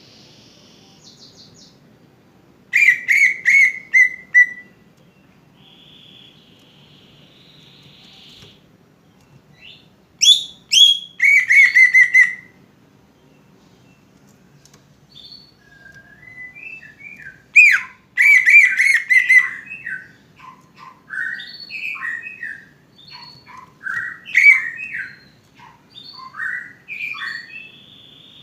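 Green leafbird (cucak ijo) song: loud bursts of rapid chattering and whistled notes, first two short phrases, then a longer run of varied, up-and-down notes from about two-thirds of the way in. A faint steady high buzz sits between the phrases.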